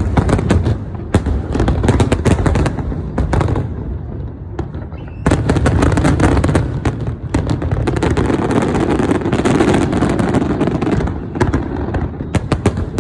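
Fireworks going off in rapid succession: a dense run of bangs and crackles, thickest from about five seconds in until near the end.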